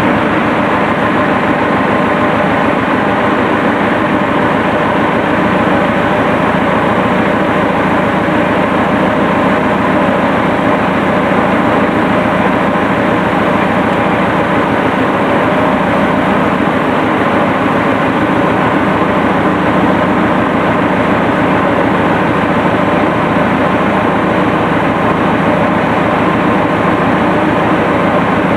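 Massey Ferguson Super 90 diesel tractor engine running steadily at idle just after being started.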